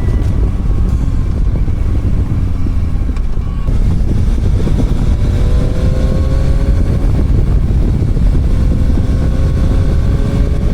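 Motorcycle engine running on the move, under heavy wind rumble on the microphone. The engine's pitch climbs slowly twice as the bike accelerates.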